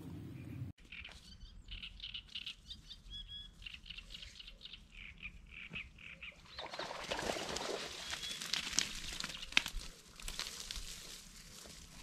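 Small birds chirping in short, repeated calls. About halfway in, a broad rustling noise with scattered clicks joins them.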